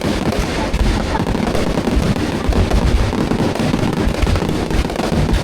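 Fireworks going off in a dense, continuous barrage of overlapping low booms and sharp bangs.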